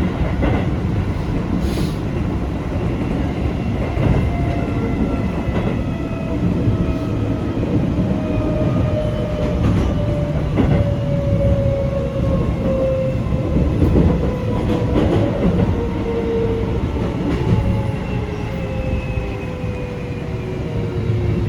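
Keio 8000 series train's Toshiba IGBT inverter and permanent-magnet synchronous traction motors whining, in a set of tones that fall slowly and steadily as the train slows. Running rumble and occasional rail-joint clicks lie underneath.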